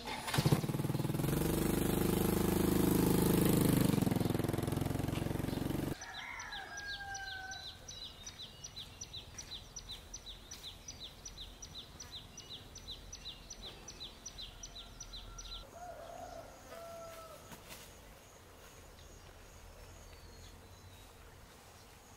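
Outdoor rural sound. A loud rushing noise for the first few seconds cuts off suddenly. Then a bird gives a rapid run of high chirps, about two or three a second, for around ten seconds, with a few short whistled notes mixed in, and a faint high trill near the end.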